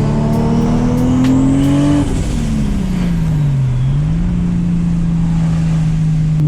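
Straight-six drift car engine revving up for about two seconds, dropping off, then holding a steady note, over the steady drone of another engine.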